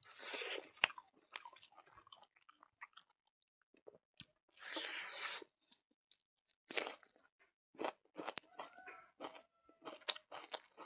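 A person chewing and crunching food close to the microphone: wet, irregular chewing clicks, with two longer crunching bites, one at the start and one about halfway through.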